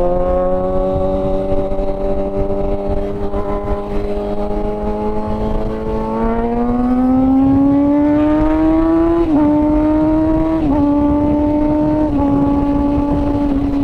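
Kawasaki ZX-6R sportbike's inline-four engine, heard from the rider's seat: it runs steadily, then revs up for a few seconds and drops in pitch three times, about a second and a half apart, as the rider shifts up through the gears. Wind buffets the microphone underneath.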